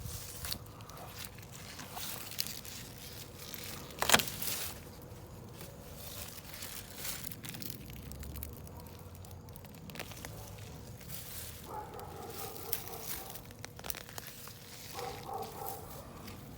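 Hands digging through garden soil and pulling potato plants: rustling, crackling and crunching of dirt, leaves and stems, with one sharp knock about four seconds in.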